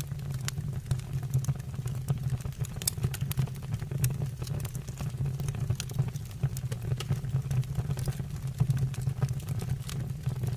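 Wood fire burning in a stove or fireplace: a steady low rumble of flames with frequent sharp crackles and pops from the burning wood.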